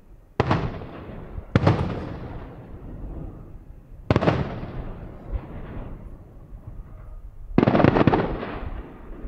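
Aerial fireworks bursting: four loud bangs, about half a second, one and a half, four and seven and a half seconds in, each trailing off in a rolling echo, the last one longer.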